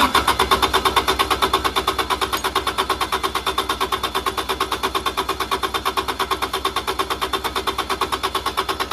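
Kubota D722 three-cylinder diesel turning over on its starter without firing, an even pulsing of about six compression strokes a second. It is a no-start crank while fuel delivery is being checked with a gummed-up injection pump suspected.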